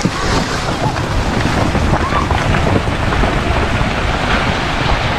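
Steady, loud rushing noise of wind buffeting the microphone, with a deep low rumble running under it.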